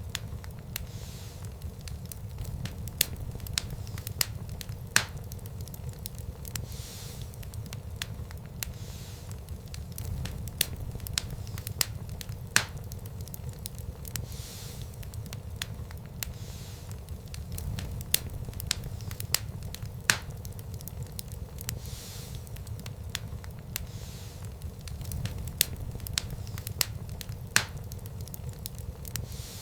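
Fireplace fire burning: a steady low rumble of flames with continual small crackles and a few louder sharp pops every few seconds.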